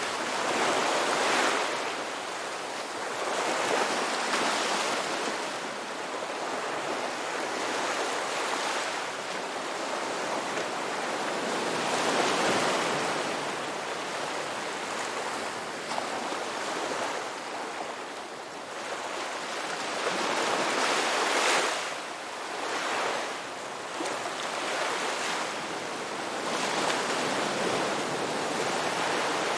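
Ocean surf: waves breaking and washing in continuously, the rush swelling and ebbing every few seconds.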